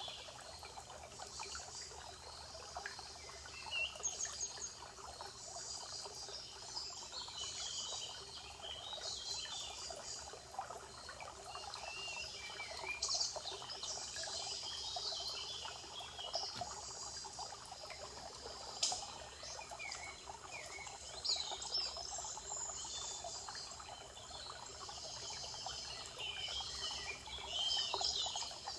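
Forest birds singing: many short chirps and trilled phrases from several birds, overlapping, over a soft steady background hiss.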